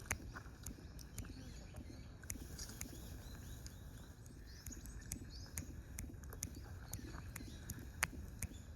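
Outdoor ambience with a steady low rumble, faint high bird chirps, and scattered sharp clicks.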